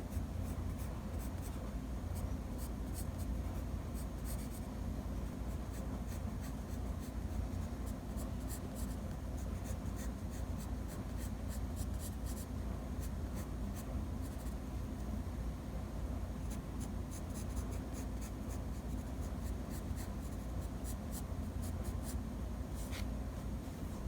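Drawing strokes: a pen or pencil tip scratching in quick clusters of short strokes, with a steady low hum underneath.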